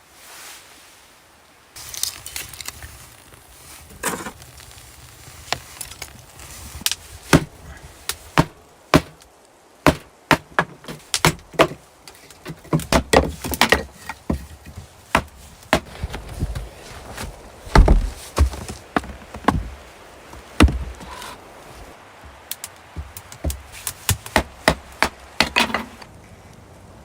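Wood being chopped: a long run of sharp, irregularly spaced blows, some in quick clusters, starting about two seconds in and stopping shortly before the end.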